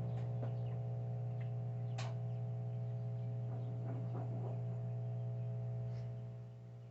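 Brastemp washing machine running in its spin cycle: a steady hum with a few faint ticks, dropping in level near the end. This is the 'helicopter' noise, which the technician traces to a worn bearing in the transmission mechanism.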